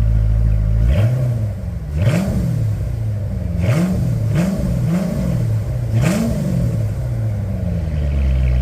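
2010 Corvette Grand Sport's LS3 V8 blipped about six times from idle in quick short revs, with its dual-mode exhaust valves open, then settling back to a steady idle near the end.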